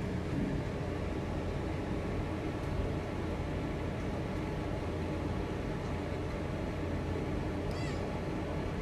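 A steady low hum over an even background hiss, with a budgie giving one short, high chirp near the end.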